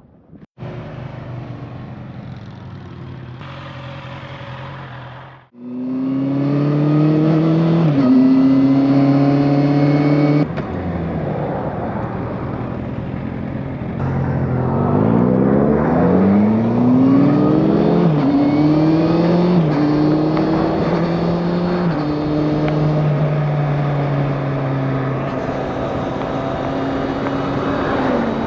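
Motorcycle engine accelerating and shifting up through the gears, its pitch rising and then stepping down at each gear change, several times in a row. The sound cuts out briefly about five seconds in and is louder after it.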